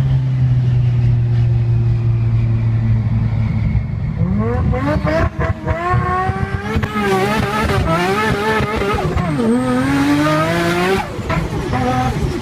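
Car engine running steadily, then revved hard from about four seconds in: its pitch climbs and swings up and down repeatedly before dropping away near the end.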